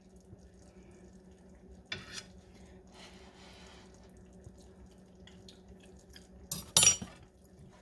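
A spoon clinking against a cooking pot during tasting: a light knock about two seconds in and a louder clink near the end, over a faint steady hum.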